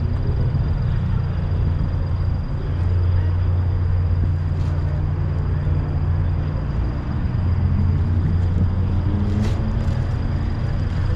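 Turbocharged flat-four sports car engine and exhaust droning steadily at cruise, the engine note rising near the end as it revs up. A couple of brief clicks come about nine seconds in.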